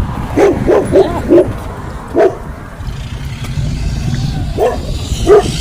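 Dog barking: a quick run of four barks, one more a moment later, then two more near the end.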